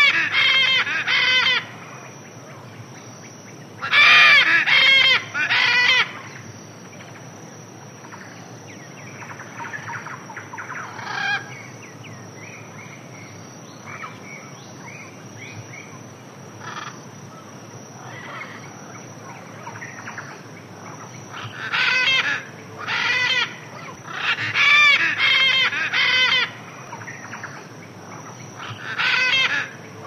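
Loud, harsh bird calls in bouts of three or four, a bout near the start, another a few seconds in, and several more in the last third, with fainter calls between them. A steady high whine runs underneath.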